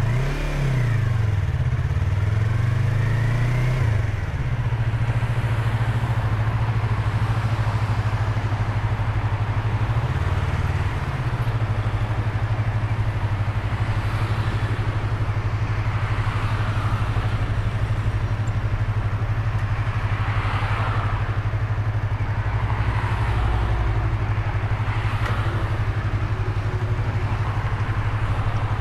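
Yamaha YZF-R25's parallel-twin engine under way, heard from inside the rider's helmet with wind noise: the revs drop and climb again in the first few seconds and once more about ten seconds in, then hold a steady cruising note.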